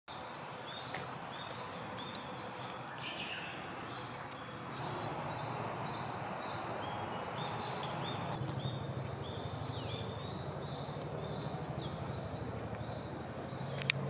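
Woodland birdsong: several small birds calling in short, repeated high notes, over a steady low background rumble. A single sharp click sounds near the end.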